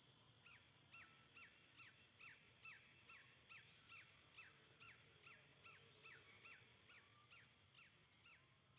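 A bird calling faintly: a steady series of about twenty short whistled notes, each falling sharply in pitch, a little over two a second.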